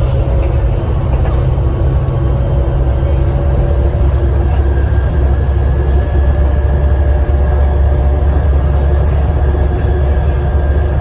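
Volvo B7TL double-decker bus's six-cylinder diesel engine running under way, heard on board as a loud, steady low drone that drops lower about four seconds in. A thin, steady high whistle, the turbocharger, sits above it.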